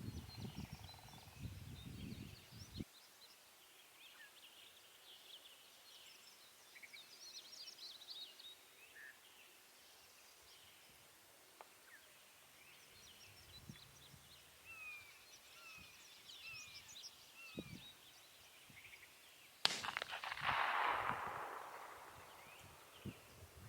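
A few low knocks of handling at the start, then faint songbirds chirping, and about twenty seconds in a single sharp shotgun blast from some way off, its echo rolling away over two or three seconds: the hunter's shot at a turkey.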